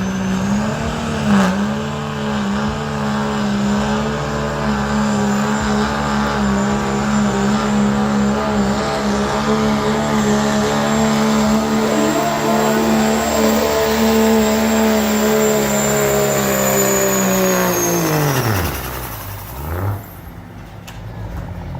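Stock diesel pickup truck engine held at high revs under load through a sled pull, steady for about eighteen seconds with a faint high whistle above it. Near the end the revs fall away quickly to idle as the pull finishes.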